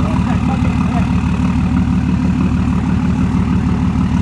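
2006 Dodge Ram 2500's 5.9-litre Cummins inline-six turbo diesel idling steadily through a 5-inch straight-pipe exhaust. It makes a loud, even, low rumble that neither rises nor falls.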